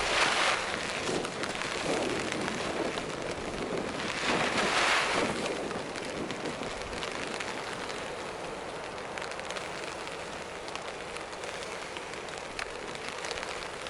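Two long breaths blown hard into a tinder bundle to coax a bowdrill ember into flame, one right at the start and one about four seconds in, over steady rain pattering.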